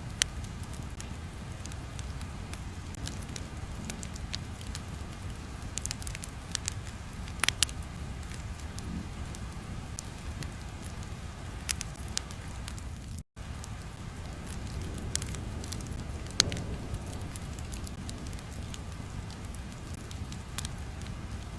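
Crackling fire ambience: a steady low rumble with scattered sharp pops and crackles, and a brief dropout about thirteen seconds in.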